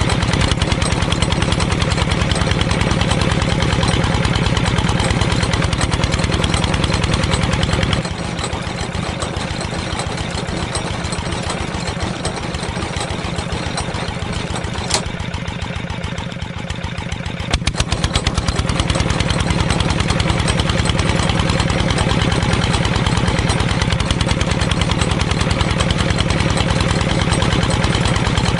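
A small engine on a homemade mini tractor running steadily with a fast, even firing rhythm. It quietens for about ten seconds in the middle, with a click or two, then comes back up to its earlier level.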